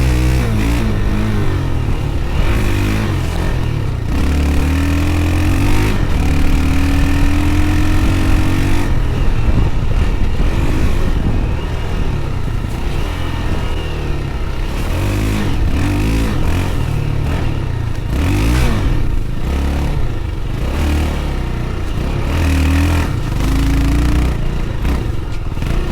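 Honda XR250 dirt bike's single-cylinder four-stroke engine revving up and down as it is ridden along a trail. The engine pitch climbs in long rises, around 2 to 4 seconds in and again from about 6 to 9 seconds in, and eases off between.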